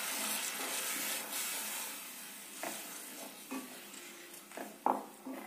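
Onion-tomato masala sizzling in butter in a kadhai as it is stirred with a wooden spatula, the sizzle gradually dying down. The spatula knocks against the pan a few times, loudest near the end.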